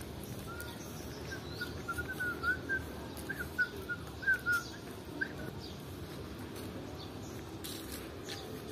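A bird calling a series of short chirps, about a dozen in all, starting about a second in and stopping about five seconds in.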